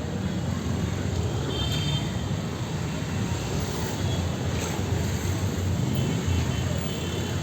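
Busy street traffic: a steady rumble of engines and tyres, with a faint horn toot about two seconds in.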